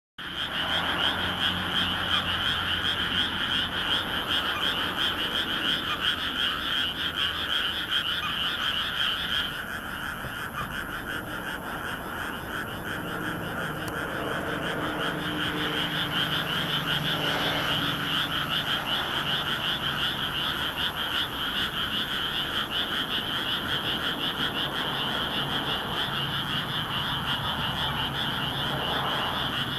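A large chorus of frogs calling together, many rapid croaks overlapping into one continuous din. The highest-pitched calls drop out for several seconds about ten seconds in, then return.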